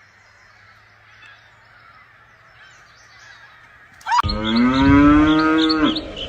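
A single long, loud animal call, slightly rising then falling in pitch, starting about four seconds in after a few seconds of quiet.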